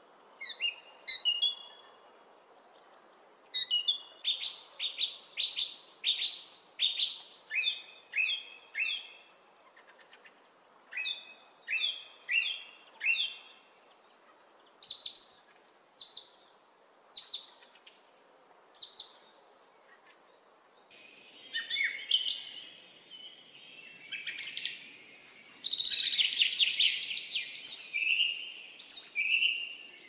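Birds chirping: groups of short, sharp, high notes roughly once a second, thickening about two-thirds of the way through into a denser chorus of several birds calling at once.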